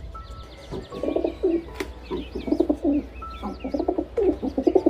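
Domestic pigeons cooing: a run of repeated low, throaty coos, with faint short high chirps over them.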